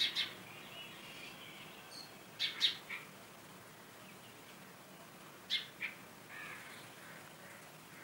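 Short bird calls over a faint background: one right at the start, a quick group of two or three about two and a half seconds in, a pair about five and a half seconds in, and a softer call just after.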